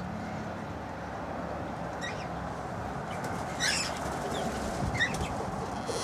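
A few short, high bird chirps, the loudest a little past the middle, over a steady background hiss.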